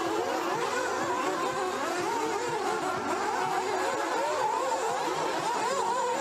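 Several nitro RC buggies' small glow-fuel engines running at once, their high-pitched whine rising and falling as they rev up on the straights and back off into corners.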